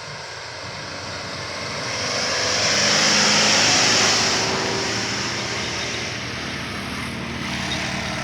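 Road vehicle passing close by: its tyre and engine noise swells to a peak about three to four seconds in, then fades. A steady engine drone carries on afterwards.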